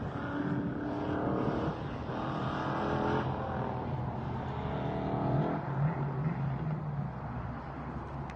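A Toyota Prius engine pulling hard through an autocross run, heard from a distance: the engine note surges and eases back about three times over the first five seconds or so, then fades as the car moves away.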